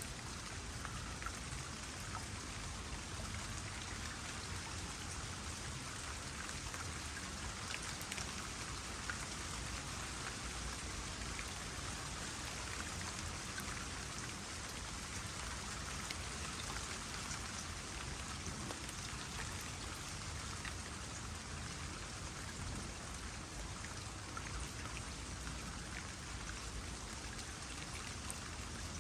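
Light rain pattering on a small pond, with water trickling steadily; many small drop ticks are scattered over an even hiss.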